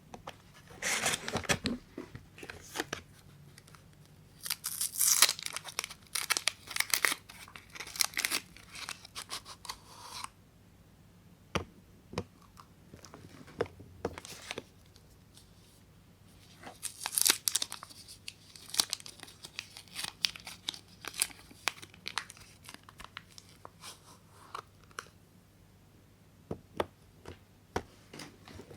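Soap wrappers being torn open and crumpled by hand: irregular bursts of tearing and crinkling with scattered small clicks and taps, broken by quieter pauses.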